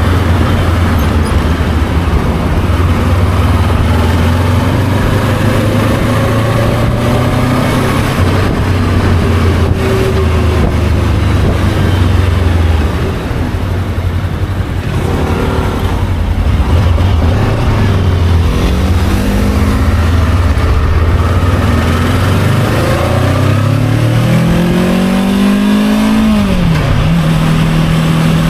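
Motorcycle engine running under way with road and wind noise. Past the middle the revs climb steadily for several seconds, then fall sharply near the end and settle to a steady tone.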